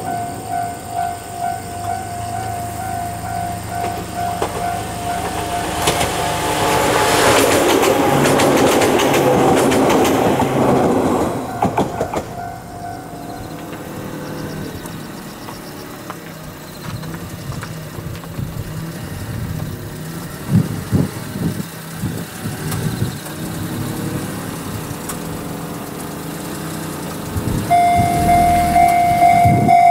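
An electric train of Ohmi Railway's 809 formation runs past close by, loudest for several seconds, while a level crossing bell rings in a steady pulsing pattern. Later the train approaches from a distance with a low rumble, and near the end a loud steady tone starts up.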